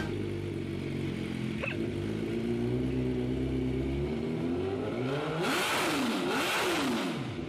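Sport motorcycle engine running, then revving about two-thirds of the way in, its pitch swinging up and down several times.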